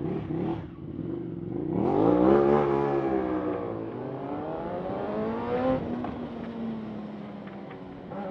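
Sportbike engine pulling away under throttle: the pitch climbs, eases off, climbs again and drops sharply about six seconds in, as at a gear change, then runs on at a steadier pitch.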